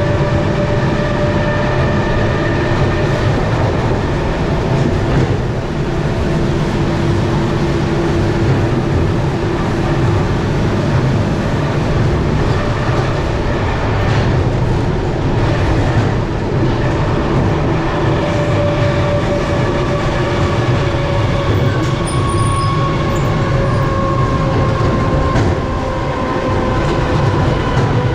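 Electric commuter train running along the track, heard from inside the carriage: a steady rumble of wheels on rails with the clickety-clack of the rail joints. Several faint high tones ride over it, slowly dropping in pitch in the second half.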